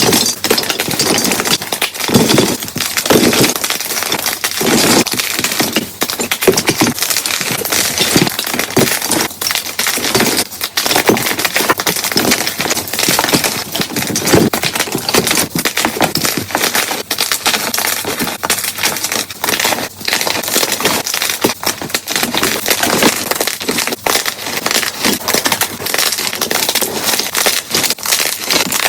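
Blocks of gym chalk being crushed by hand, a dense run of crunching and crackling with no pause. The crushes are played back at double speed, so they come thick and fast.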